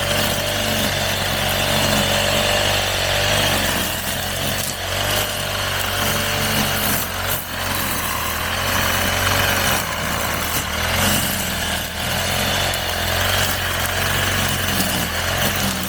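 Petrol brush cutter running steadily, its engine note wavering slightly.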